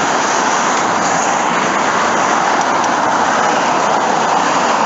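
Steady road traffic noise: a continuous hiss of cars passing on a busy road.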